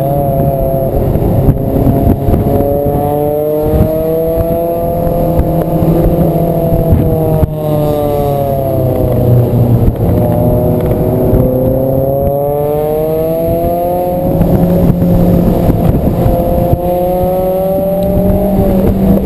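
Honda S2000's four-cylinder engine pulling on a twisty climb, its pitch rising through the revs, dropping off, rising again and falling back several times as the driver accelerates, lifts and shifts, heard from inside the open-top cabin.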